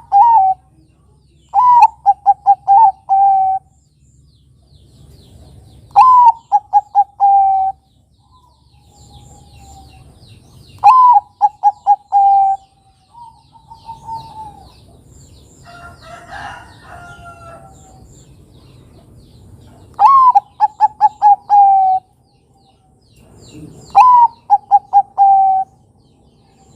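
Zebra dove (Bangkok-type perkutut) cooing its song, repeated about five times a few seconds apart: each phrase opens on a high note, runs into a string of quick short coos and ends on a longer drawn-out coo. A fainter, rougher call from another bird comes about halfway through.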